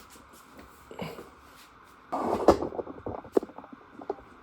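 Metal parts being handled: a short scraping clatter about two seconds in, then a few sharp knocks.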